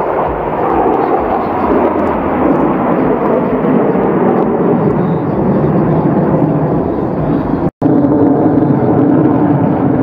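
Engines of Sukhoi Su-27 fighter jets in an aerobatic display, a loud, steady rush of jet noise. It cuts out for an instant about three-quarters of the way through, then resumes.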